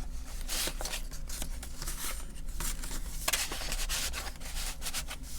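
Paper pages of a handmade junk journal rustling and rubbing as they are handled and turned, with a stronger swish a little after three seconds in.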